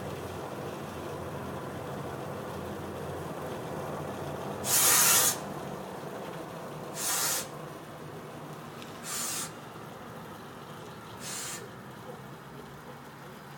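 Funicular railway machinery running with a steady low rumble, broken by four short hisses, each shorter and fainter than the last.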